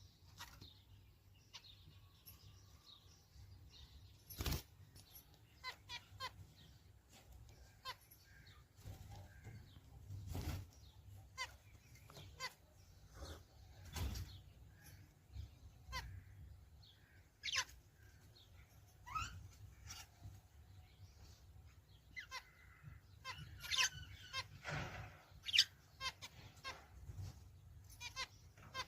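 Pet finches calling with short, high chirps scattered throughout, with a few louder knocks now and then.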